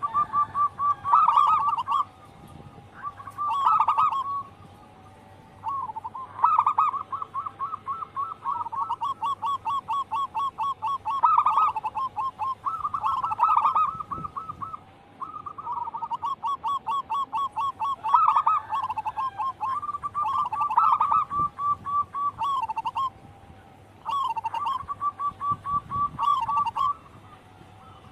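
Zebra doves cooing: rapid trains of short staccato coos, phrases of one to three seconds repeated with brief pauses.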